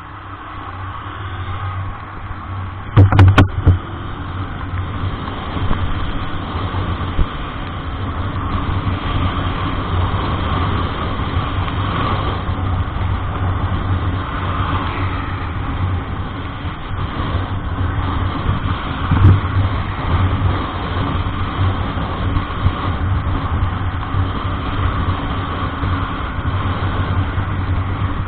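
A road vehicle driving along, its engine and road noise running steadily after building up over the first couple of seconds. A short cluster of loud knocks comes about three seconds in.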